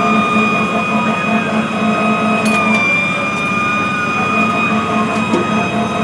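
Fire engine siren sounding. It holds a steady high tone while a fainter wail slowly rises and falls, over a low, regularly pulsing rumble.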